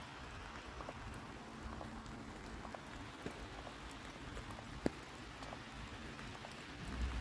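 Light rain pattering, with scattered drips ticking and one sharper tap about five seconds in.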